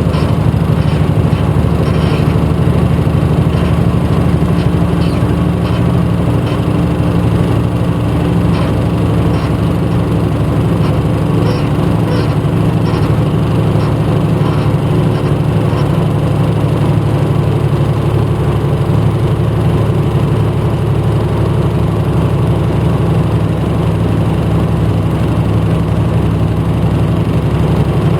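Engine of a 1994 Hino Blue Ribbon U-HT2MPAA city bus heard from inside the passenger cabin, running with a steady, even drone. Light ticking rattles come and go through the first half.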